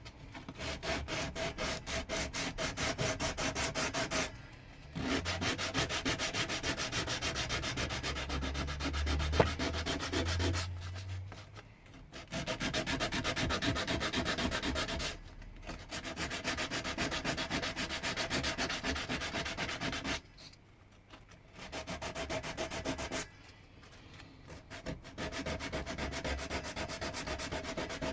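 Pine wood being sanded by hand: quick, even back-and-forth scraping strokes in bouts, with short pauses between them.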